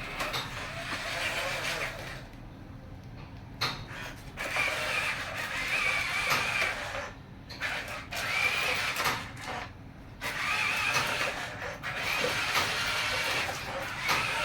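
Small electric motors and plastic gearboxes of radio-controlled toy construction vehicles whirring in spurts. The whirring drops away briefly a few times.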